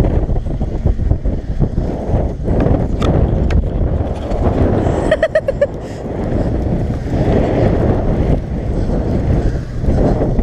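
A Chevy truck's engine running as it backs up through snow, with a rumble and wind buffeting the microphone, and scattered knocks. About halfway through, a short run of quick beeps sounds.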